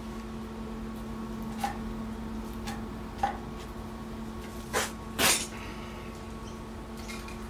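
A few sharp knocks and clunks, four in all, the last two the loudest, over a steady hum.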